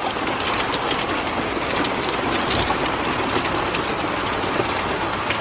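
Wind gusting, a steady rushing noise with a fine crackle through it.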